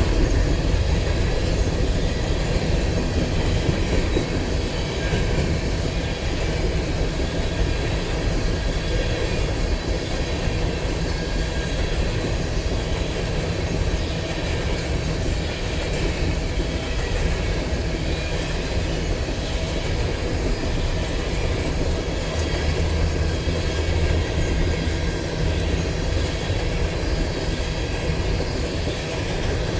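Railroad cars of a train rolling past, the steady rumble of wheels on rail with a clickety-clack over the joints.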